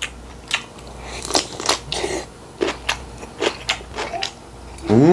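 Close-up crunching and chewing of crisp cucumber kimchi (oi-sobagi) with a mouthful of bibimbap: irregular sharp crunches about every half second. A short hummed voice sound begins at the very end.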